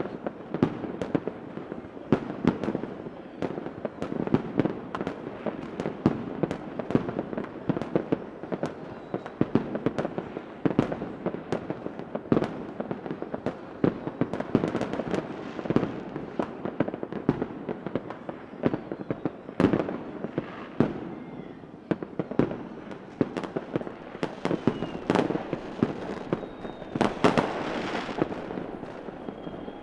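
Fireworks going off in a dense, continuous barrage of sharp bangs close together. A few faint whistling glides come in the second half, and a louder cluster of bursts follows near the end.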